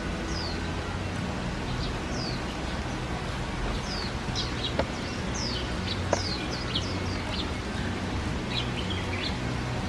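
Small birds chirping: short, high calls that slide downward, repeated every second or so over a low steady hum, with a couple of faint clicks near the middle.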